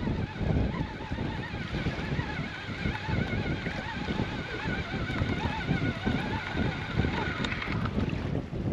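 Strong wind buffeting the microphone, with a wavering whine from a fishing reel being wound in against a fish on the line. The whine stops near the end.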